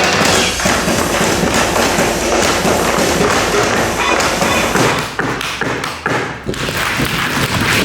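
Tap-dance footwork: rapid, dense strikes of tap shoes on the stage floor, loosening into more separate beats about five seconds in.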